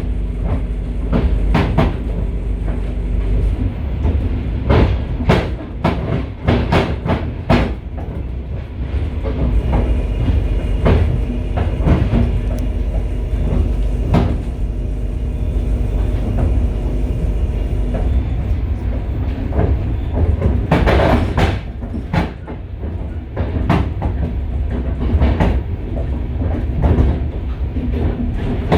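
A train car's wheels running on the track, heard from inside the car's vestibule. Under a steady low rumble come frequent irregular clacks and knocks of the wheels over rail joints and junction switches, with a burst of louder clanks a little past two-thirds of the way through.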